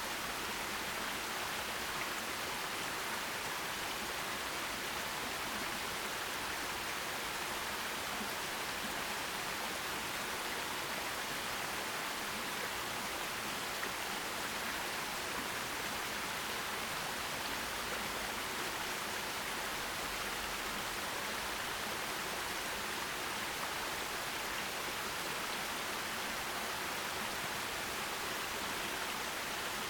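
Forest stream flowing steadily, an even hiss of running water with no breaks.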